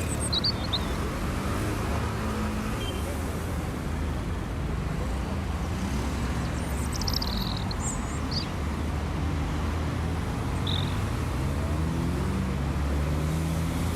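Street traffic: a steady rumble of car and bus engines running and passing, with their pitch slowly shifting. A few short high chirps come through the traffic.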